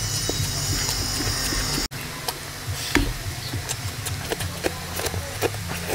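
Close-miked wet chewing and lip-smacking of a handful of rice and oily curry eaten by hand: a string of short moist clicks and smacks over a steady low hum, with a brief drop-out about two seconds in.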